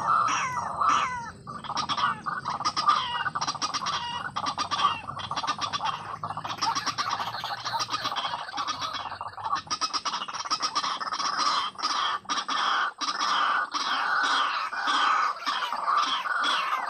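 White-breasted waterhen (ruak-ruak) calls: a long, unbroken run of harsh, clucking notes repeated in quick succession.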